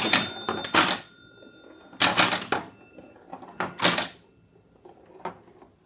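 1952 Gottlieb Chinatown electromechanical pinball machine in play: a series of sharp mechanical clacks, roughly one every second or so, some followed by a faint lingering ring.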